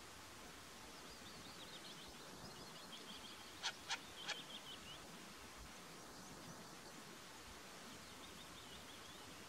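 A bird calling: a fast run of short, high chirping notes, with three loud sharp calls in the middle and a fainter run of notes near the end.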